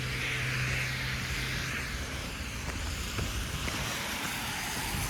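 Street traffic passing: a vehicle's steady engine hum cuts out about a second and a half in, over tyre hiss and low rumble, with wind buffeting the microphone.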